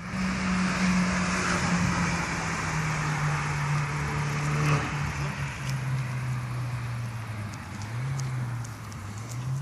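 Seat Leon Cupra R's 1.8-litre turbocharged four-cylinder idling through an aftermarket Bull-X exhaust, its pitch stepping down about halfway through as the idle settles, with a brief small rise near the end.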